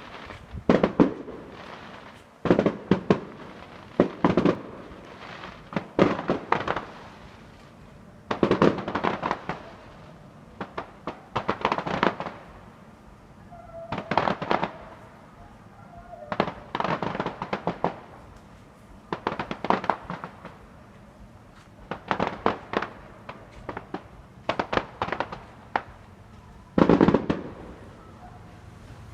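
Fireworks going off in quick clusters of sharp cracks and bangs, a new volley every couple of seconds with short lulls between.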